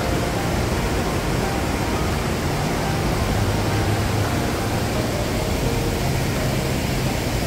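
Steady, loud rush of fast-flowing water in a mountain gorge stream.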